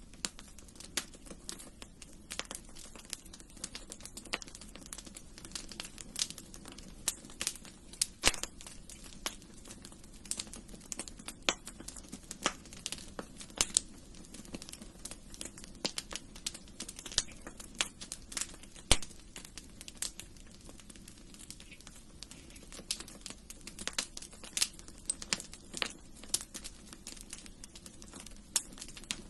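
Wood fire crackling in a fireplace: irregular sharp pops and snaps, several a second, over a low steady rush of the flames.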